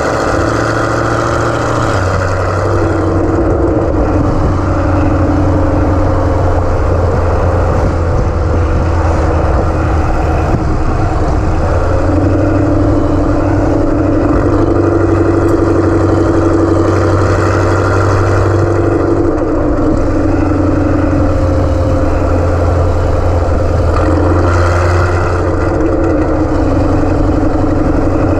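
Camaro ZL1 1LE's supercharged V8, with a cam, headers and a Corsa Extreme exhaust, running steadily at low revs. The pitch shifts slightly a few times, and the exhaust is loud throughout.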